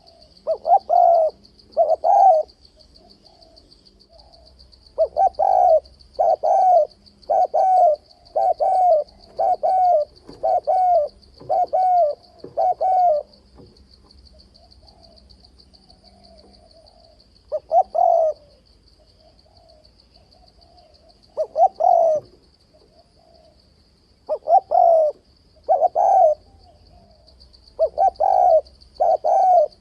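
Spotted dove cooing: runs of short, rapid coo notes broken by pauses of a few seconds, with a steady high insect trill underneath.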